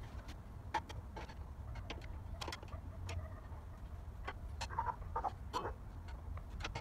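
Irregular light clicks and taps of hand tools and metal parts as the bearing housing cap screws are tightened on a Scott Bonnar Model 45 reel mower's cutting reel, over a low steady hum.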